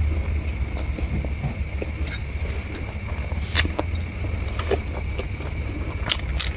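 Close-miked chewing of food, with scattered crisp crackles and mouth clicks over a low steady rumble.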